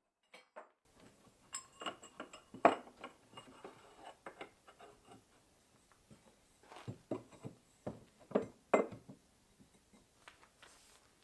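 Steel frame tubes being handled and set into a wooden jig: scattered knocks and metallic clinks, a few ringing briefly.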